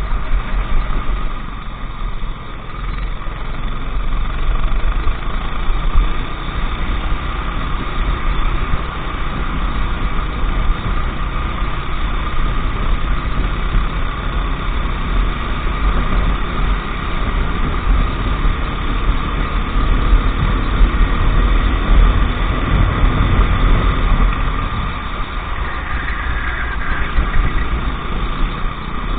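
Go-kart engine running steadily.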